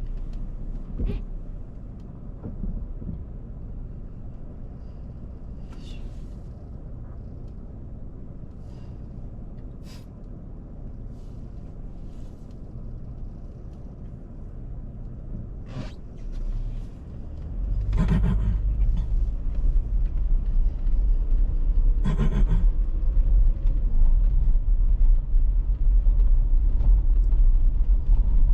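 Car driving, a steady low road and tyre rumble with a few scattered knocks. The rumble gets clearly louder about two-thirds of the way through, with two heavier knocks soon after.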